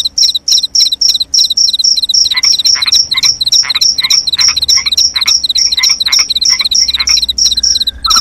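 Crickets chirping in a fast, even rhythm of several chirps a second. From about two seconds in, frogs join with a string of short, repeated calls.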